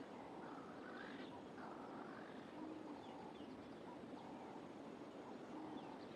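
Faint bush ambience: small birds chirping and calling briefly here and there over a steady background hiss.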